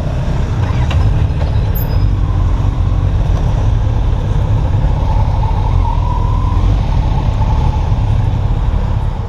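A motorcycle on the move, its sound dominated by a heavy wind rumble on the camera's microphone, with engine and road noise under it. The sound drops away suddenly at the very end.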